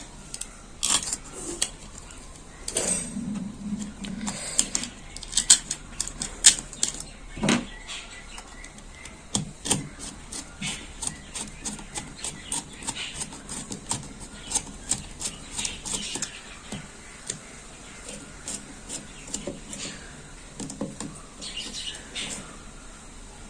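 Scattered small clicks, taps and knocks of a nut and bolt being tightened and plastic bottle parts being handled and fitted together, busiest in the first half.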